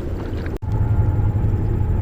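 Steady low rumble of wind buffeting the microphone, broken by a brief sudden dropout about half a second in.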